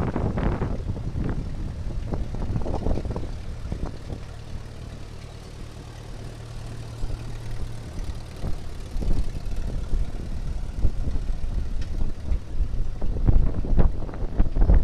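1961 Minneapolis-Moline M5 tractor's engine running at a steady idle, with gusts of wind buffeting the microphone.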